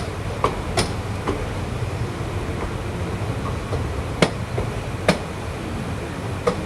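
Passenger train under way: the steady low rumble of the moving coach, broken by irregular sharp clanks and knocks from the running gear, the loudest about four and five seconds in.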